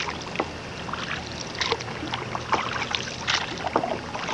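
Small, irregular splashes and drips of water around a kayak moving through calm water, over a low steady hum.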